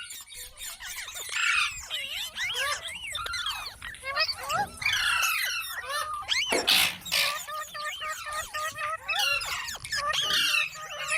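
Parrot chattering and calling: a continuous run of quick, warbling chirps and squeaky whistles that rise and fall in pitch. A short, harsh, noisy burst cuts in just past the middle.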